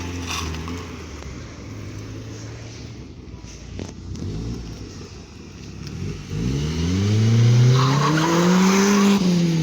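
Car engines pulling away: a low engine note at first, then from about six seconds in a louder car accelerating hard, its engine note rising to a peak near the end and then falling as it passes.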